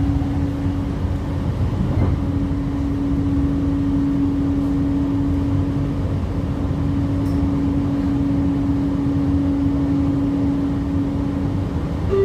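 Interior of a Jakarta LRT train car in motion: a steady low rumble with a constant low hum running under it.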